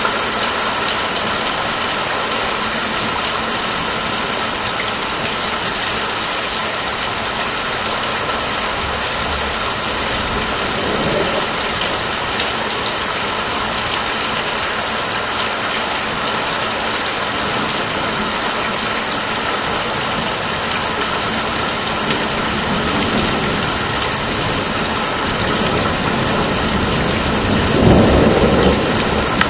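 Steady hiss of rain during a thunderstorm, with low rumbles of thunder: a fainter one about a third of the way in and a louder one near the end.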